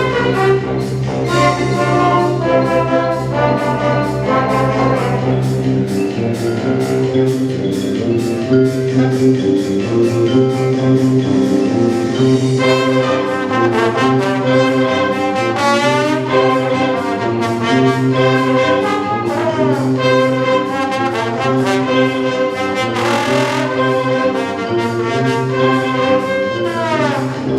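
Wind band playing, with brass to the fore over a steady repeating bass line. Several sweeping rises and falls in pitch come through the second half.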